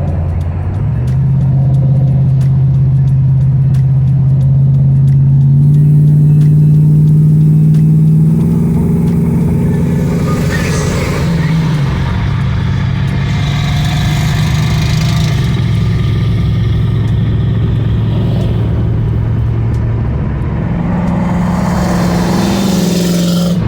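Car engine running under way, its pitch climbing in steps and then easing back down before rising again near the end.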